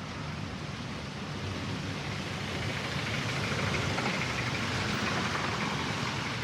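Street traffic with vehicle engines running close by, growing gradually louder.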